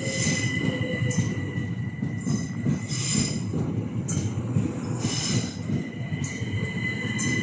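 Electric multiple-unit train running through the station, with a steady high whine and a rumble, and short wheel squeals roughly every second.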